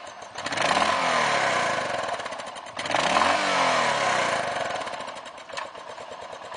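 A 2012 Suzuki Boulevard S40's 650cc single-cylinder, air-cooled engine revved twice: about half a second in and again near three seconds in, each rev rising quickly and falling back to idle. It then settles to a steady idle.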